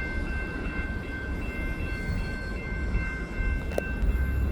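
EXO commuter train with an ALP45DP locomotive moving through the station: a steady low rumble with a high-pitched whine held throughout, and a single sharp click near the end.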